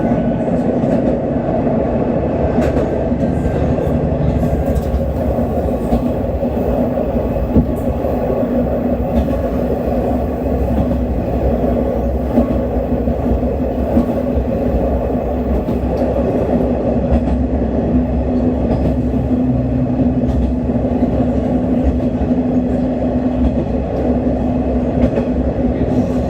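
Diesel railcar running at steady speed, heard from inside the car: a constant engine and wheel hum with a few brief clicks from the wheels on the track.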